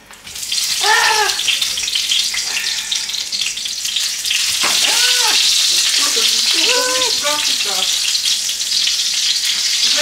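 Cutlets sizzling in hot oil in a frying pan. A loud, steady hiss starts suddenly just after the start.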